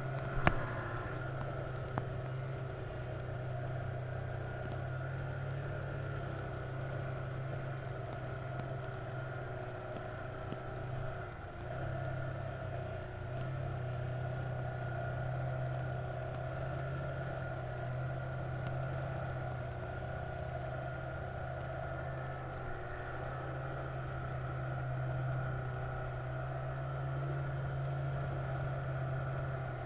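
A vehicle engine running at a steady speed, its even hum dipping briefly about a third of the way in.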